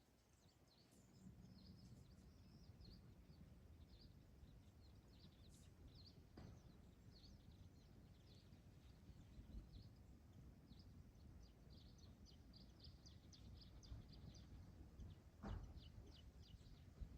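Faint birds chirping in short, repeated calls over a low wind rumble, with a short thump near the end.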